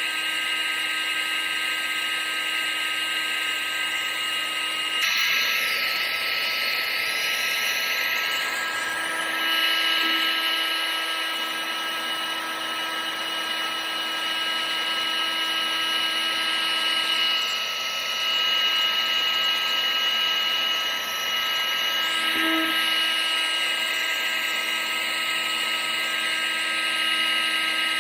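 Electric appliance motor running steadily: a high whine with several held tones over a rush of air. About five seconds in the sound shifts and the hiss grows brighter, and it swells slightly a few times after.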